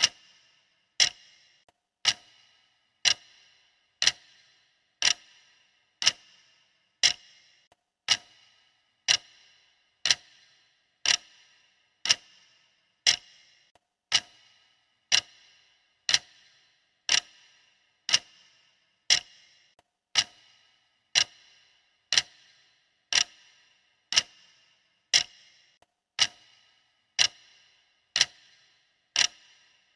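Countdown timer's clock-style ticking, a steady sharp tick about once a second that keeps pace through the workout countdown.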